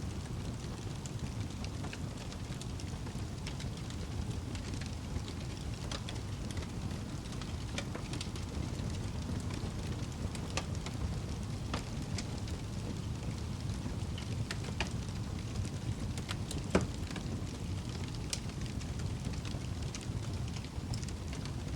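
Wood fire burning in a fireplace: a steady low rumble of flames with scattered crackles and small pops, and one sharper pop about three quarters of the way through.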